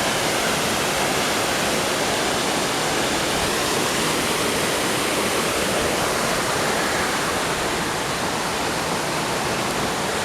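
Water rushing steadily past in a river, a continuous even rush.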